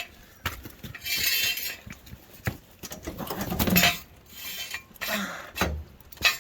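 Steel jack stands clinking and clanking as they are set under a go-kart's frame and the kart is lifted onto them, with several sharp knocks and a stretch of scraping.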